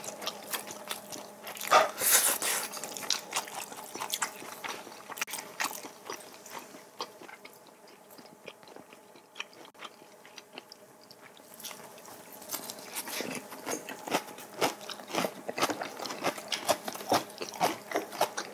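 People chewing and crunching food: mouthfuls of gimbap and fresh napa cabbage kimchi (geotjeori), with many small crackling bites and wet mouth clicks, quieter for a few seconds in the middle.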